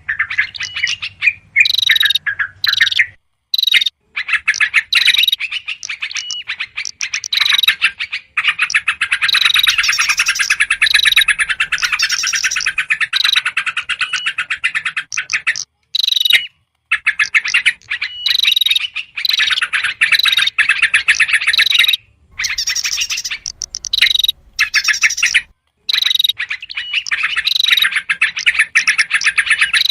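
Bird-lure recording of yellow-vented bulbuls in noisy, rapid chattering, with repeated short high whistled notes. The calling breaks off abruptly into brief silences several times.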